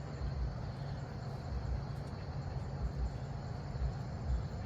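Steady outdoor background noise: a low rumble with irregular low thumps, under a faint, steady high insect chirring.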